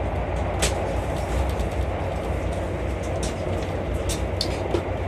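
Steady low rumble of a VIA Rail passenger train running at speed, heard from inside the coach. A few short sharp clicks sound over it, one about half a second in and several more between three and four and a half seconds in.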